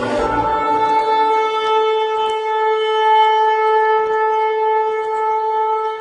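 A horn blown in one long, steady, unbroken note, rich in overtones.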